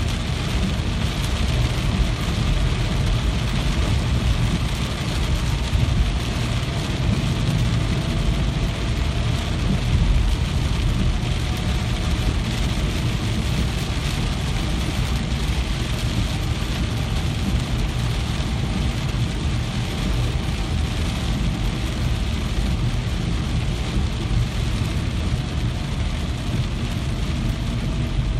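Steady rain, a continuous even hiss with a deep low rumble underneath and no single drops or other events standing out.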